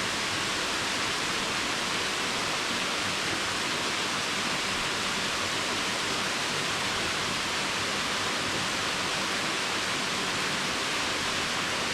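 Steady rush of falling water from a waterfall running high after recent rain, an even hiss that neither rises nor falls.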